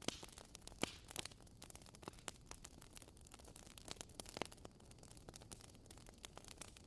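Wood fire crackling: faint, irregular sharp pops and snaps over a soft hiss, with a louder pop about a second in and another at about four and a half seconds.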